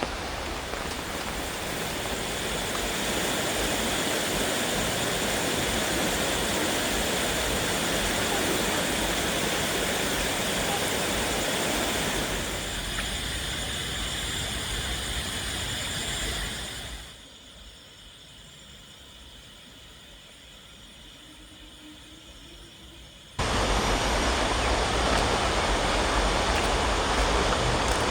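Steady rushing of water, an even hiss with no single tone. About two-thirds of the way in it drops to a much quieter hiss for several seconds, then comes back suddenly at full strength.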